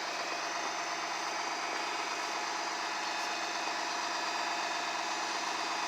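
A motor vehicle's engine idling steadily, an even hum with no change in pitch.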